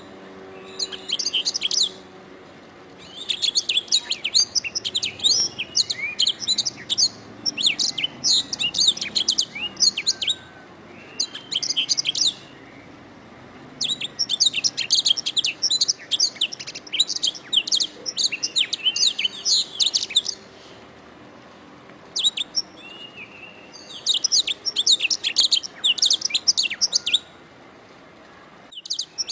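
Domestic canary singing: rapid high trills and chattering phrases of a few seconds each, broken by short pauses.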